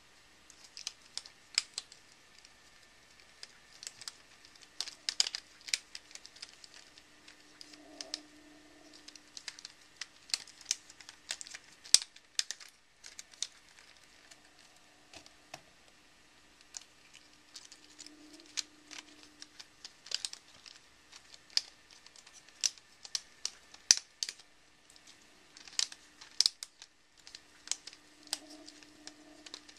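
Rubik's Snake being twisted: its plastic wedge segments click as they rotate, in many quick, irregular clicks.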